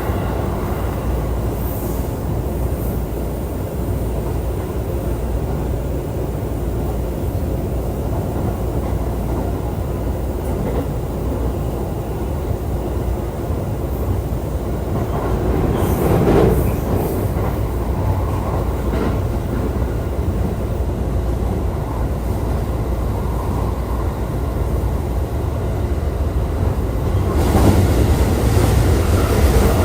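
Running noise of a JR East E531 series electric train heard from inside the car: a steady rumble of wheels on rail, swelling louder and brighter about halfway through and again near the end.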